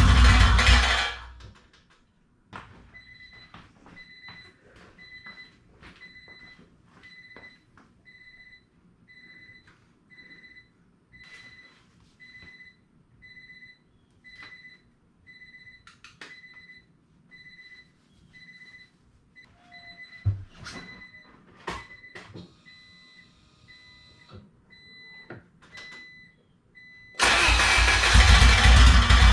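Car engine running that cuts off about a second in, followed by a repeating electronic warning beep, about one a second, with scattered clicks. A loud burst of sound comes in near the end.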